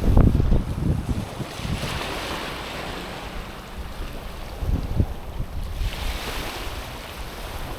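Small waves washing in over a stony, pebbly shore, the hiss of the wash swelling and falling back twice. Wind buffets the microphone with low rumbles, loudest at the start and again about five seconds in.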